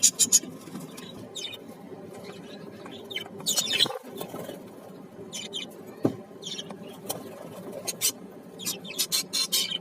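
Parrots chirping and squeaking in short, high-pitched bursts, with a quick run of chirps near the end, over a steady low hum.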